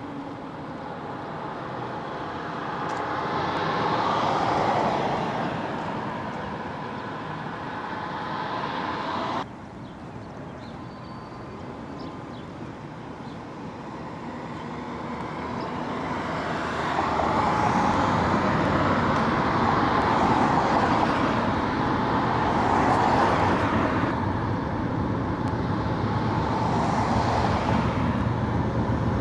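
Freight train passing, its diesel locomotives and rolling cars making a continuous rumble that swells and fades. An abrupt cut comes about nine seconds in, after which the train sound builds again with a steady low engine drone.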